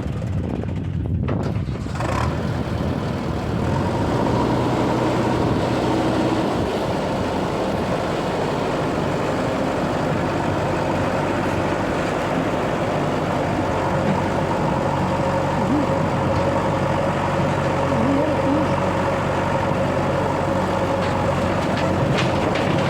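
Diesel engine of a JCB 3DX backhoe loader running steadily while loading, with a thin steady whine joining in a few seconds in.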